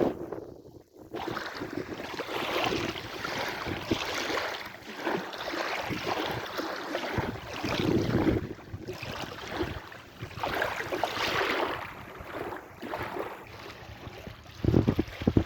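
Sea waves washing in and out, the rush of water swelling and easing every few seconds, with a brief drop-out just under a second in.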